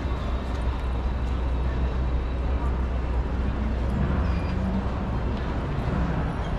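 City street ambience: a steady low rumble of traffic with faint voices and a few scattered clicks.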